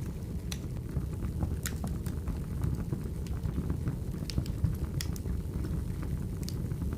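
Firewood burning: a steady low rumble of the fire with sharp crackles and pops at irregular moments.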